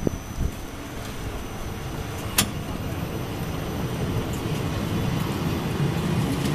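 Double-deck electric commuter train rolling along the platform, its running noise growing steadily louder as it gathers speed, with a single sharp click about two and a half seconds in.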